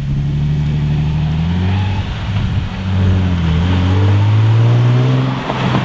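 Nissan 370Z's 3.7-litre V6 accelerating hard through an aFe Takeda cat-back exhaust. The engine note climbs steadily, dips briefly about halfway through, then climbs again.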